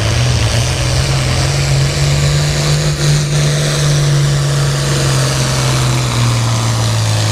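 International Harvester 966 tractor engine running hard at a steady high speed under load while pulling the weight sled. Its pitch rises a little early on and drops slightly about six seconds in.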